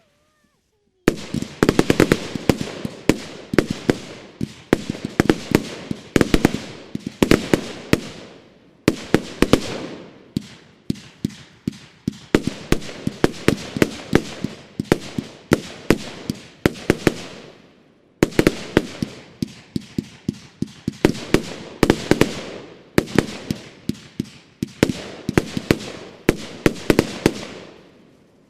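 Consumer firework battery firing rapid volleys. Each volley is a quick string of sharp bangs with crackle, lasting a second or two, and short gaps separate the volleys. The firing stops near the end.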